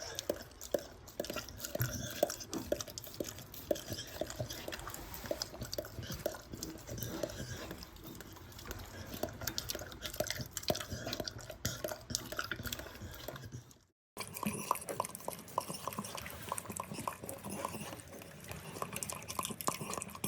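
Small dog licking and lapping mayonnaise from a dish: a steady run of quick, wet licking clicks, broken by a brief silence about fourteen seconds in.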